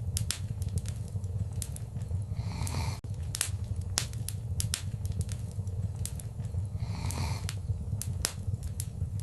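Wood fire crackling: irregular sharp pops and snaps, often several a second, over a steady low rumble of the flames, with a couple of brief soft hisses.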